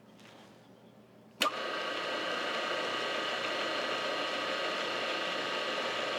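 An electric shop machine motor switched on with a click about a second and a half in, then running steadily with a whine.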